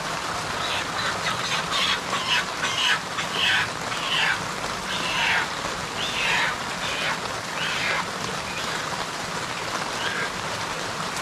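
Poultry calling: a run of about a dozen short, harsh squawks over several seconds, then dying away, over a steady hiss.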